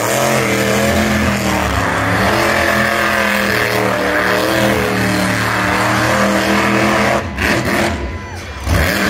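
Monster truck engine running loudly at a steady pitch that wavers slightly. It drops away for a moment about seven seconds in, then picks up again.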